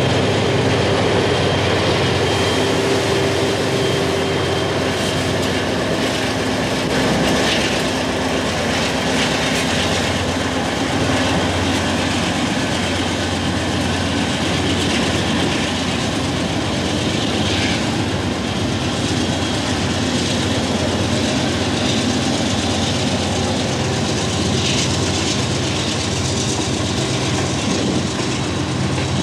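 Freight train passing close by: a steady rumble of steel wheels on rail, with occasional clacks.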